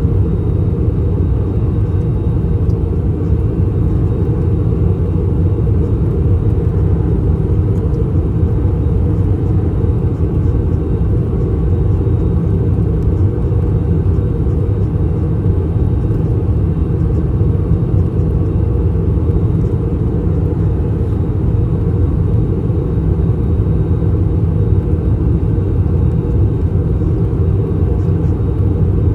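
Steady low drone in the cabin of an Airbus A321-200 in descent: its IAE V2533-A5 turbofan engines and the airflow over the fuselage, heard from a passenger seat.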